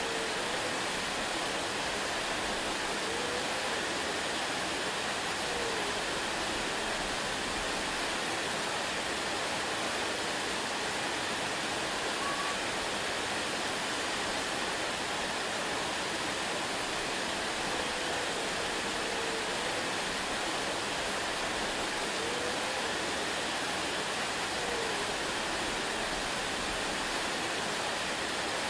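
Waterfall rushing in a steady, even hiss that never changes in level. Faint short wavering tones sound low under the rush every few seconds.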